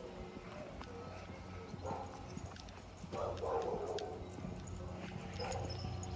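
A dog barking a few times, each bark short, over a steady low hum.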